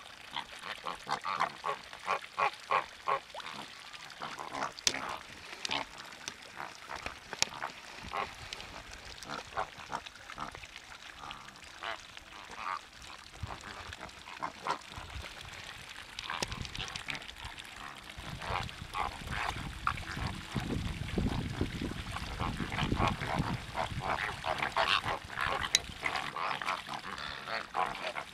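A flock of waterbirds calling together: a dense chorus of short honking, gabbling calls. A low rumbling noise joins in about two-thirds of the way through.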